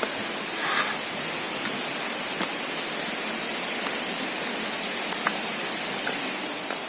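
Steady rushing of a rocky mountain stream, with a continuous high-pitched whine above it and a few faint clicks.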